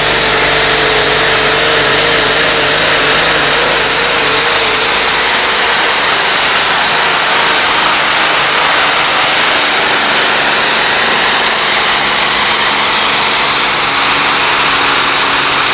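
Competition pulling tractor's engine running flat out, very loud and steady, its pitch wavering slightly in the first few seconds.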